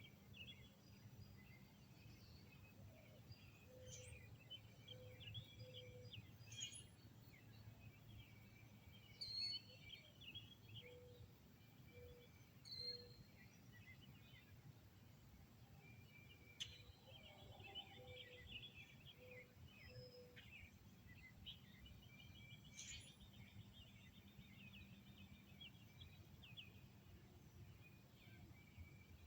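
Faint birdsong: several birds chirping and trilling throughout, with a lower call of three evenly spaced notes repeated three times, about seven seconds apart. A faint steady low rumble lies underneath.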